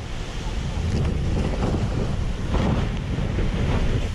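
Wind buffeting a camera microphone: a steady, low rumbling rush of noise.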